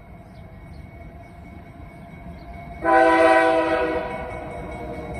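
Norfolk Southern freight locomotive's air horn blowing a loud chord that starts sharply about three seconds in and eases a little after a second, over the low rumble of the train.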